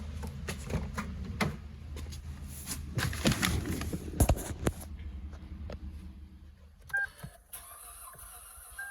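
Clicks and knocks of handling, then an electronic beep about seven seconds in and a steady beep tone starting near the end, the chime of a car's ignition being switched on.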